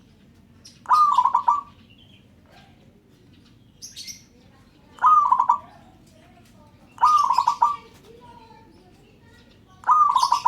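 Zebra dove (perkutut) cooing: four short phrases a few seconds apart, each a brief gliding note breaking into quick pulses. A faint high chirp from another small bird comes about four seconds in.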